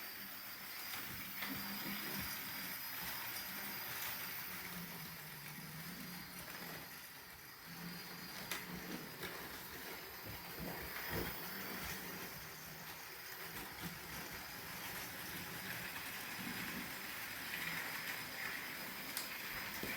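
Trix HO-scale model locomotive running on its track: a faint steady hum and high whine from its small electric motor, with a few scattered clicks from the wheels on the rails.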